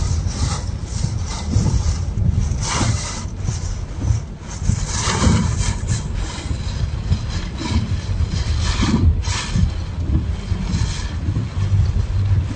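Typhoon wind and storm-surge sea: a constant heavy wind rumble on the microphone, with louder rushing surges about 3, 5 and 9 seconds in.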